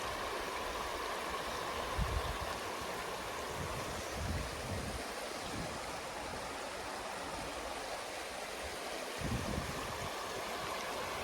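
A stream runs with a steady rushing and gurgling. A few dull, low thumps break through it, about two seconds in, around the middle and near the end.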